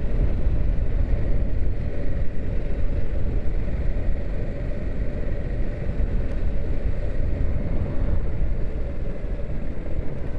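Motorcycle running on the road, a steady low rumble of engine and wind noise picked up by a microphone inside the rider's helmet.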